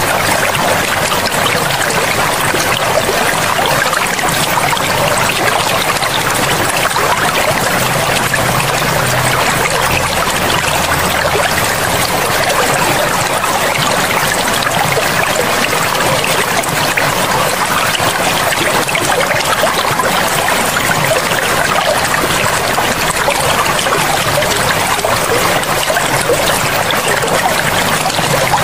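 River water flowing steadily over rocks, an even rushing and trickling.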